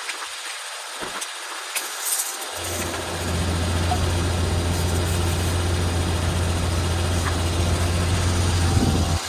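A carpet-cleaning machine's motor starts up about two and a half seconds in, then runs steadily with a low hum.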